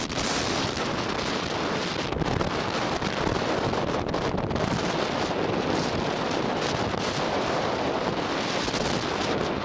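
Wind blowing across the microphone, a steady rushing noise without a break.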